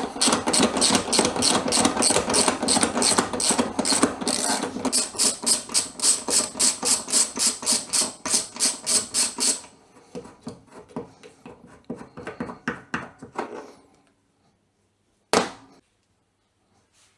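Power tool, most likely an impact wrench, hammering rapidly and evenly as it undoes a washing machine's transport bolts, and stopping about ten seconds in. Quieter intermittent rattling follows, then a single sharp knock.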